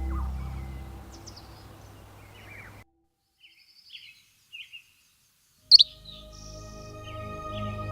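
Relaxation music with a low held drone fading out over the first three seconds, with bird chirps over it. After a near-silent gap with a few faint chirps, a loud sharp bird call comes just before six seconds in as music with steady held tones fades back in, more chirps following.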